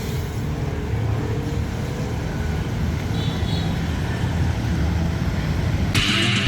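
Road traffic: a motor vehicle's engine running steadily under road noise. Loud electric-guitar music cuts in suddenly near the end.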